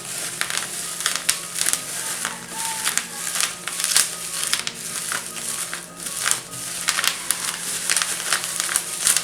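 Plastic bubble wrap crinkling and rustling in irregular crackles as it is pulled off and unwrapped from a ring light by hand.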